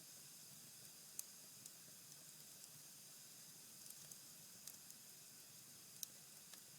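Cherry-wood fire in a fireplace burned down to embers: a faint steady hiss with a few small sharp crackles, the clearest about a second in, just before five seconds and at six seconds.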